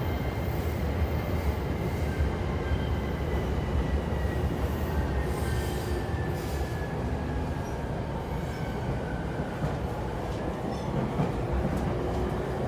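E231-series electric train heard from inside the car while running: a steady rail and wheel rumble, with the motor whine gliding slowly in pitch, first falling and then rising near the end.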